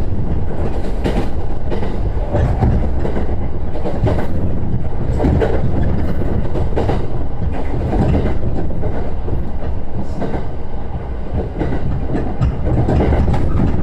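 JR East E129 series electric train running along the track: a steady low rumble with repeated clicks of the wheels passing over rail joints, heard from inside the car.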